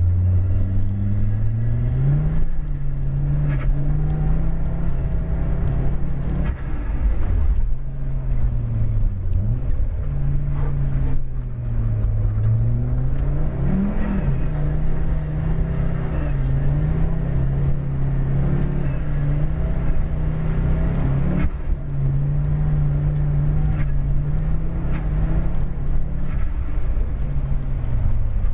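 Audi car engine heard from inside the cabin, driven hard on a snowy road. Its note rises and falls repeatedly as the revs change, with a quick rise and fall about halfway through.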